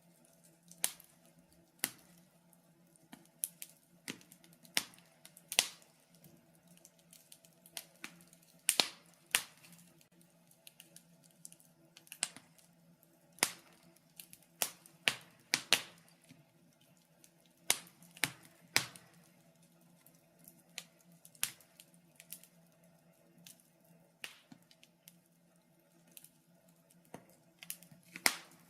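Wood fire crackling in a fireplace: irregular sharp pops and snaps, about one or two a second and uneven in strength, over a faint steady low hum.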